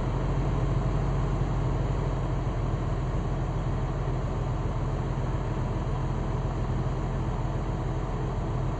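Heavy diesel engine of an earthmoving machine running steadily at constant speed, a low, even drone.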